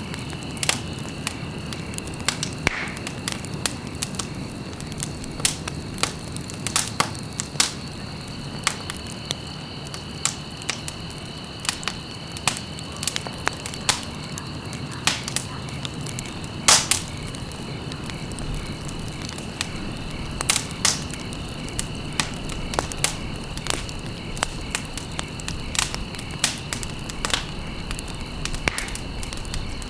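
Wood burning in a fireplace, crackling with irregular sharp pops and snaps over a steady low rush; the loudest pop comes about halfway through. A faint steady high-pitched tone runs underneath.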